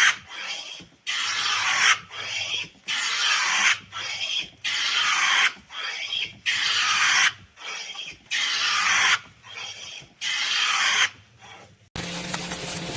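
Rhythmic rasping, scraping strokes about once a second, some with a weaker return stroke, like a tool worked back and forth by hand. About a second before the end it cuts abruptly to a steady machine hum.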